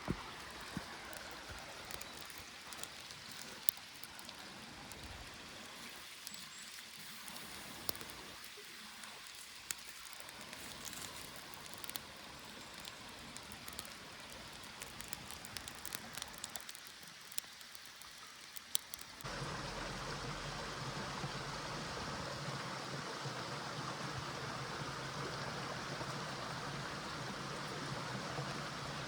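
Running water of a small stream with scattered sharp clicks over it. About two-thirds of the way through, the sound steps up suddenly to a louder, steady rush of water.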